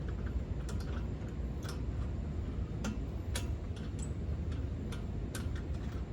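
Scattered, unevenly spaced metal clicks and ticks from lug nuts being hand-threaded onto the wheel studs, over a low steady background rumble.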